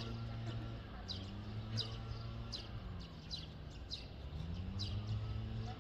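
A bird repeatedly giving short, high, falling chirps, about one or two a second, over a steady low hum.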